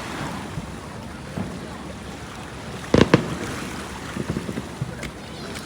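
Fireworks bursting over the sea: two sharp bangs about three seconds in, followed by a few smaller pops, over a steady rush of wind and waves.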